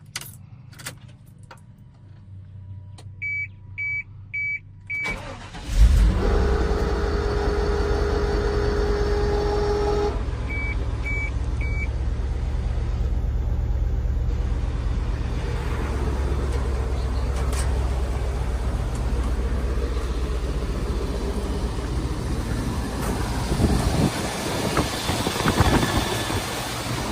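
Four short warning-chime beeps, then the 2001 GMC C6500 box truck's gasoline engine starts about six seconds in and settles into a steady idle. Three more short beeps come a few seconds after the start, and there are some louder, uneven rumbles near the end.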